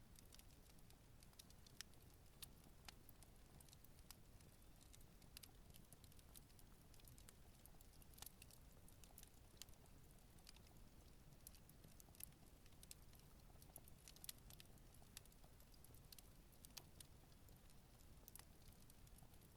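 Campfire crackling quietly: irregular small pops and snaps of burning wood, a few a second at most, over a faint low steady rumble.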